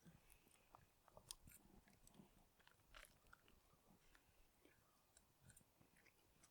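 Faint sounds of a man chewing and eating, heard as scattered soft clicks.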